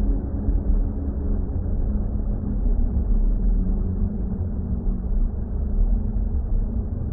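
Steady, deep water rumble, heaviest in the bass and cut off above the mid range, with faint held drone tones over it, all continuous and unchanging.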